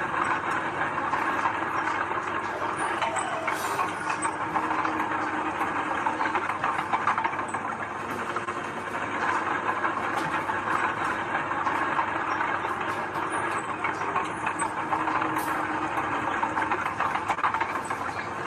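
Heavy earthmoving machinery running steadily, a diesel engine under way with scattered light metallic clanks.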